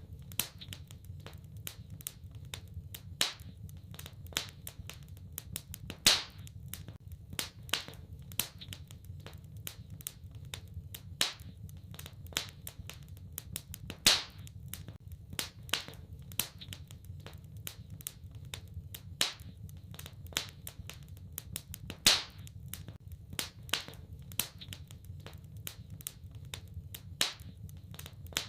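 Wood fire crackling in a fireplace: a constant run of small snaps and clicks, with louder pops about every eight seconds, over a low steady rumble.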